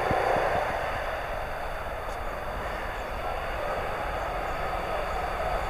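Street traffic: a motor vehicle passing close by, its noise easing off over the first couple of seconds, then a steady traffic hum.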